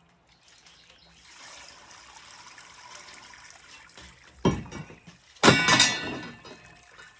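Crawfish boil water streaming and trickling off as the strainer basket is lifted from the pot. This is followed by two loud metallic clatters, the second longer and ringing.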